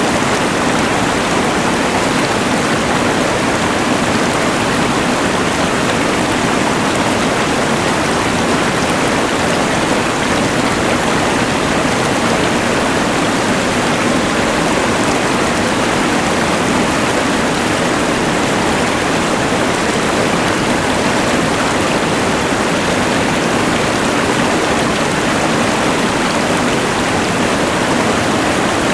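Steady rush of a mountain river blended with the even hiss of a LectroFan white noise machine, a constant full noise with no breaks or changes.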